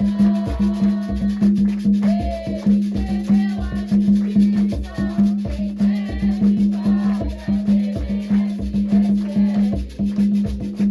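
Afro-Brazilian ritual music for Xangô: hand drums and a shaker keeping a fast, steady beat while voices sing a chant, with a steady low hum underneath.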